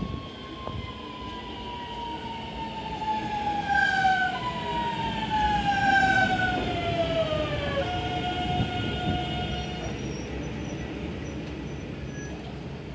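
Electric train's traction motor and inverter whine, falling in pitch in several steps as the train slows, then holding a steady tone and dying away, over the rumble of the train rolling.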